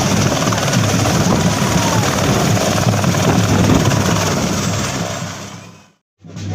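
Helicopter rotor and engine noise, loud and steady, fading out near the end.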